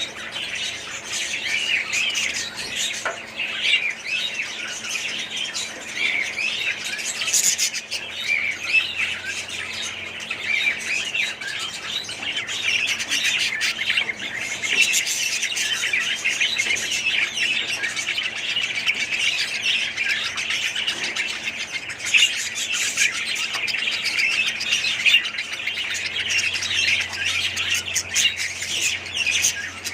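A flock of small caged parrots chattering, with many overlapping squawks and chirps in a dense, continuous twitter.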